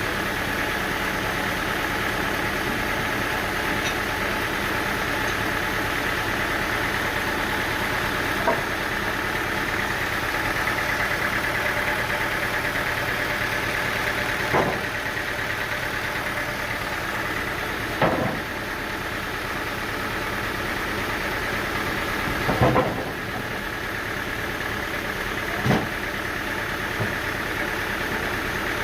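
An engine running steadily at idle, with five sharp knocks spread through it.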